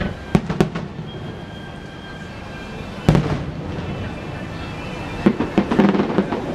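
Fireworks display: aerial shells bursting with sharp booms, two close together near the start, a big one about three seconds in, then a quick volley of bangs near the end.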